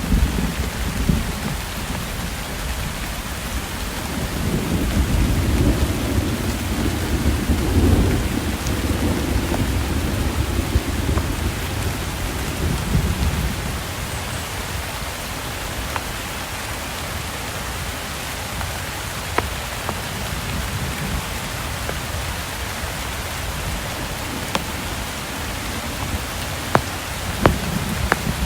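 Steady rain with rolling thunder: a low rumble swells about four seconds in and fades after about nine seconds, with a smaller one near thirteen seconds. A few sharp drip clicks stand out near the end.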